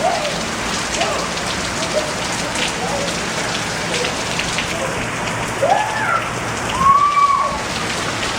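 Steady rain falling, with individual drops tapping. Two short high vocal sounds that rise and fall come about six and seven seconds in.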